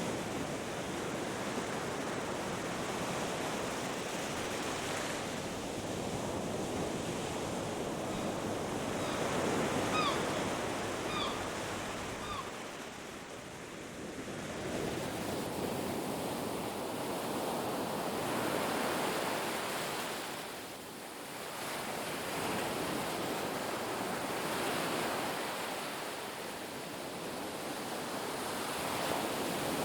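Ocean surf washing on a beach, a steady wash of noise that swells and ebbs every few seconds. About a third of the way through, a bird gives three short calls.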